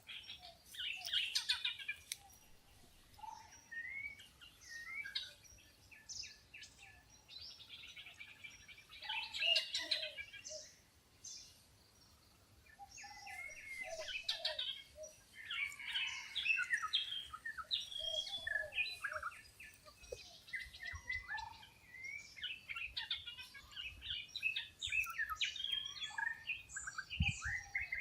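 A chorus of wild birds calling: many short chirps, whistles and trills from several birds overlapping, in bursts with a brief lull partway through and growing busier toward the end.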